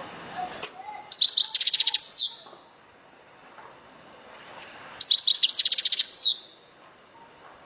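European goldfinch singing: two phrases of quick, high twittering, each a little over a second long and each ending in a falling note.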